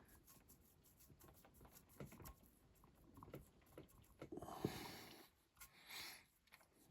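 Near silence with faint, scattered light taps and clicks of small objects being handled, and a brief scratchy rustle about four and a half seconds in, with another short one near six seconds.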